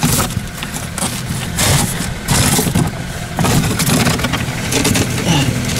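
Nissan Teana engine idling steadily just after a frosty-morning jump start, having caught after flooding its spark plugs. Gusts of wind rush over the microphone on top of the engine sound.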